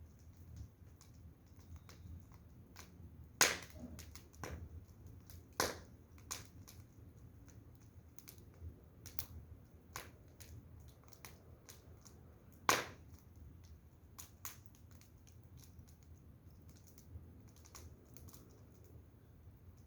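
Firewood burning, crackling with irregular small pops and three louder snaps, over a faint low rumble.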